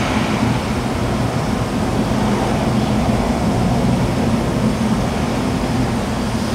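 A steady, low mechanical drone and rumble with a constant hum that does not change.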